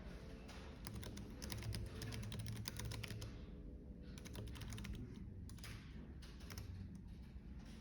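Typing on a computer keyboard in quick runs of key clicks, pausing briefly about halfway, over a steady low cafe background rumble.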